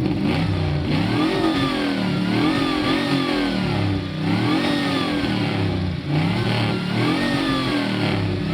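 A GM B-body car's engine is revved hard again and again through a loud exhaust. The pitch rises and falls with each rev, and it drops back briefly twice.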